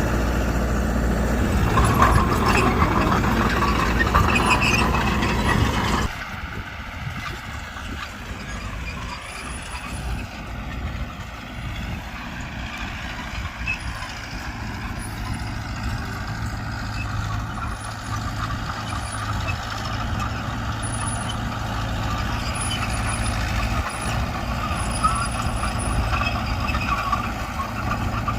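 Heavy earthmoving machine's diesel engine running at work, loud for the first six seconds. It then drops suddenly and carries on quieter, its pitch slowly rising and falling.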